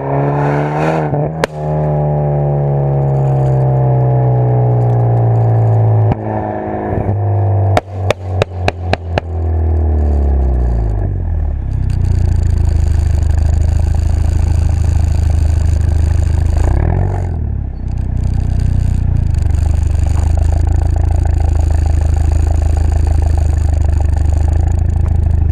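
BMW F30 320i's turbocharged four-cylinder engine through an aftermarket XEX exhaust, its pitch falling steadily as the revs drop. Partway through comes a quick string of exhaust pops and crackles on the overrun. It then settles into a steady low drone.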